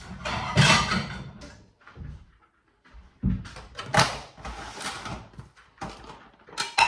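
Kitchen handling noise: a cupboard door and a plate being taken out and set down, as a run of rustles and clatters with a sharp knock about four seconds in.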